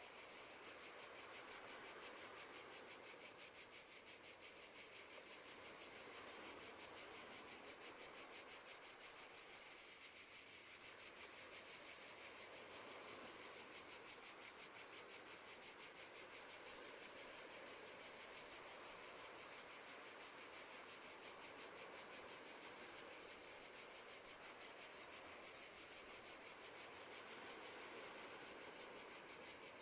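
Crickets chirping faintly in a high, even, rapid pulse that keeps on steadily.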